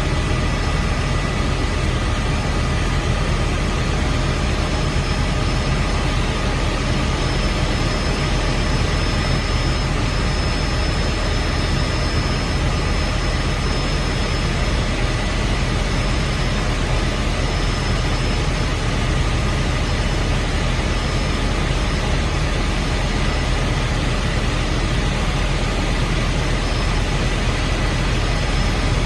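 Helicopter running: a steady, loud engine and rotor noise with a low rumble and a constant high whine.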